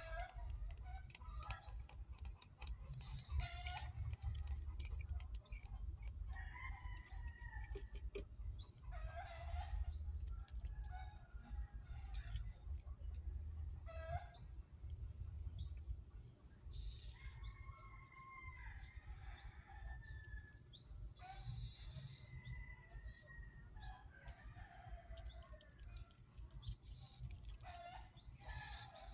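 Birds chirping, with short rising chirps repeating about once a second and other lower calls scattered among them, over a steady low rumble.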